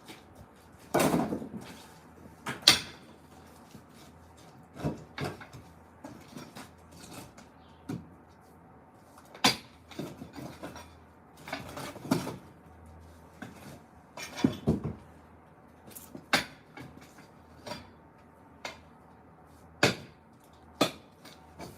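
Knocks and clatter from concrete being broken up by hand: separate sharp impacts at uneven spacing, about one every one to three seconds.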